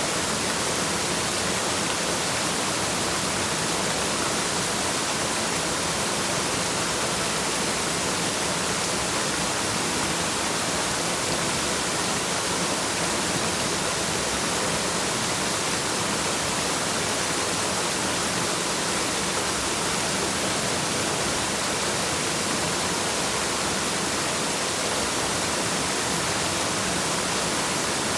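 Waterfall: a steady, unbroken rush of falling water, even throughout and strongest in the hiss of the high end.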